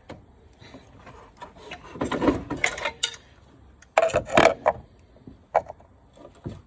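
Creaking and scraping from the Dodge Charger's engine being pulled out of the engine bay on a chain, in two loud bursts about two seconds and four seconds in, with a couple of knocks near the end.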